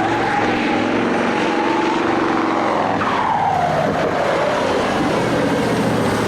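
High-revving engine of a drifting competition vehicle running hard. Its pitch holds high, then falls steadily from about three seconds in, as the revs drop or the vehicle passes by.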